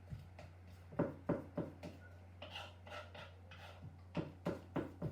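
Food being crushed by hand into a paste: irregular knocks and rubbing, in a cluster of about four strokes a second in and another about four seconds in.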